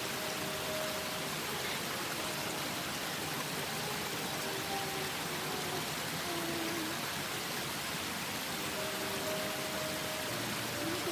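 Waterfall rushing steadily, a constant even roar of falling water. A few faint held tones sound underneath it.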